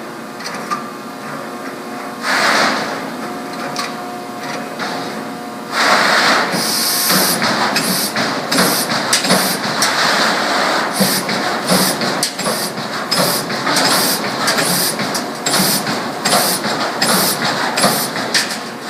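Whitney 40-ton CNC punch/plasma machine at work: a steady hum for the first few seconds, then from about six seconds in a loud hissing rush broken by quick, irregular clacks.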